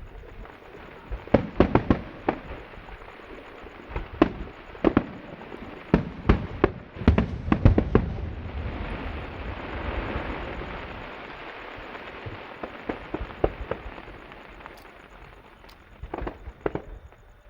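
Fireworks bursting: a rapid run of sharp bangs for about eight seconds, then a rushing hiss that swells and fades, with scattered smaller bangs near the end.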